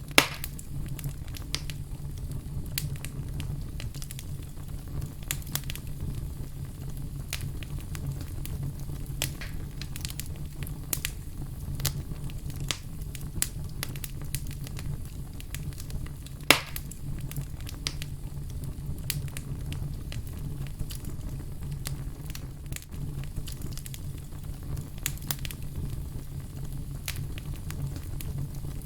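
Wood fire crackling, with a steady low rumble of flame under dense irregular snaps and two loud sharp pops, one at the very start and one about halfway through.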